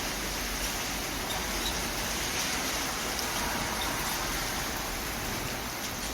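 Rain falling steadily: an even hiss with a few faint drip ticks.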